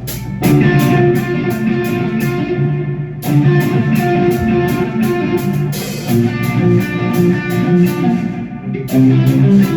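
Live band playing an instrumental passage led by electric guitar, with bass underneath and a steady high ticking on top. The full band comes in loudly about half a second in.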